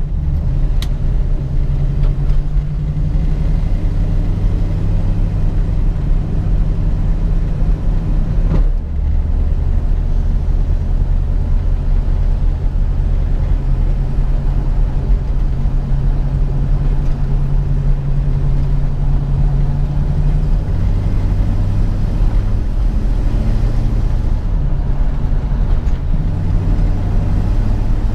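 1967 Ford Mustang's 289 small-block V8 running steadily while driving. Its engine note changes pitch about 9 seconds in and again around 20 seconds in.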